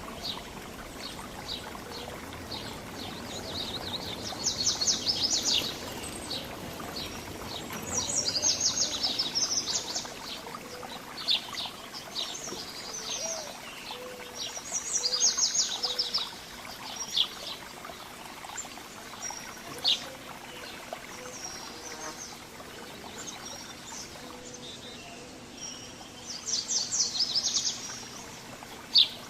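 Several small songbirds chirping and calling, with four bursts of rapid chattering notes, each about one and a half to two seconds long, and scattered single chirps between them, over a steady background hiss.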